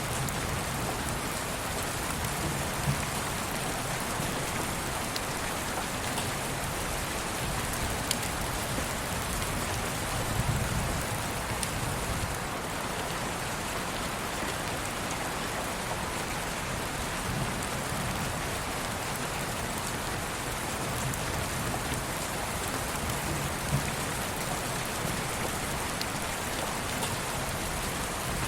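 Steady rain: an even hiss with scattered drop ticks and a few soft low swells.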